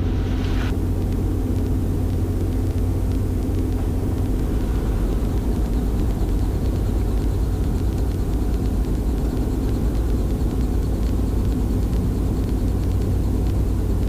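Robinson R44 Raven II helicopter's engine and rotors running steadily, a constant low rumble with a steady hum, heard from inside the cockpit.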